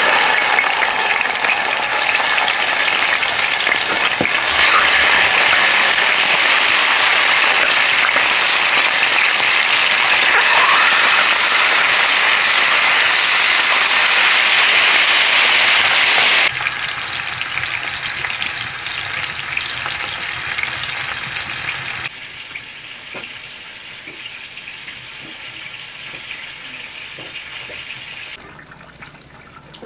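Food sizzling as it fries in hot oil. The loud, steady sizzle drops in level abruptly about halfway through, again a few seconds later, and once more near the end.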